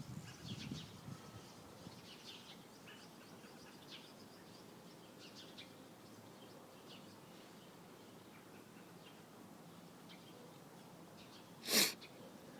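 Small bird chirping faintly, short high chirps scattered every second or so. A single short, loud sneeze-like burst comes near the end.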